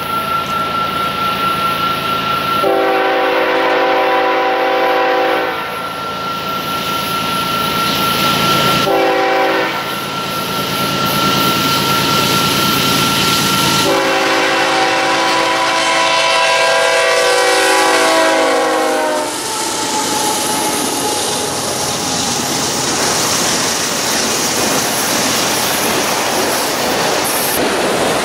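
BNSF diesel freight locomotive sounding its air horn as it approaches: a long blast, a short blast, then a longer blast, over a steady high whine. After that the train of autorack cars rolls close past with a steady rumble and wheels clacking over the rail joints.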